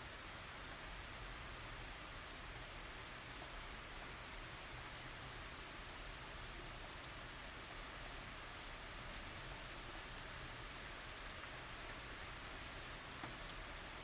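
Steady tropical rain falling, a dense even patter with many fine drop ticks.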